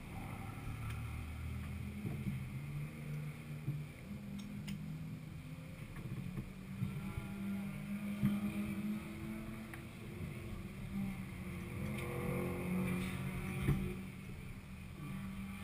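Neon's four-cylinder engine idling, a steady low drone picked up by a camera on its hood, the pitch wavering slightly.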